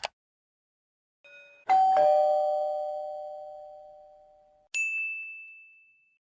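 Two-note 'ding-dong' doorbell chime: a higher note and then a lower one, both ringing out and fading over about three seconds. Near the end comes a single high-pitched ding that fades away.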